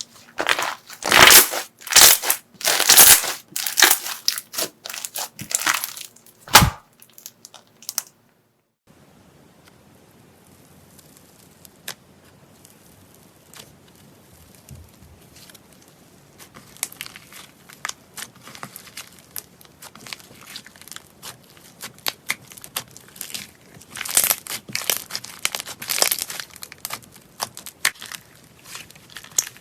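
Crunchy slime being squeezed and pressed by hand, crackling and crunching in loud bursts. About eight seconds in it cuts off briefly, then comes back as softer crackling that builds into louder clusters later on.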